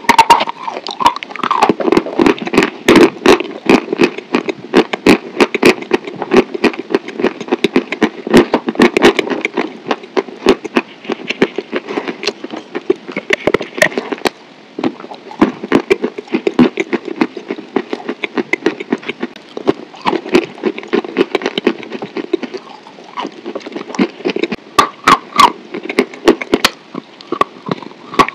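Close-up chewing and crunching of a white block dipped in brown liquid: a dense run of crackly crunches, with a short lull about halfway.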